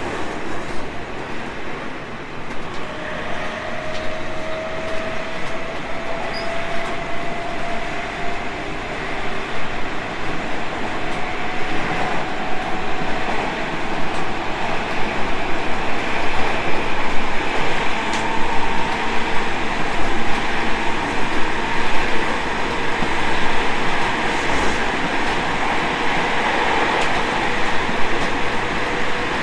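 Tobu 30000 series electric train heard running on the rails, with steady wheel and track noise. The traction motors give a faint whine that slowly rises in pitch, and the overall sound grows louder as the train gathers speed.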